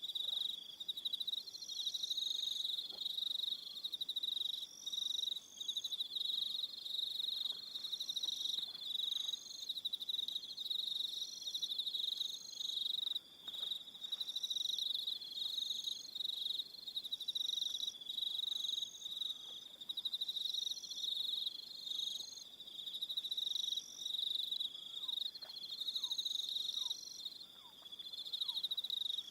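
Evening cricket chorus: a continuous high trill, with a higher-pitched pulsed call repeating about once a second over it.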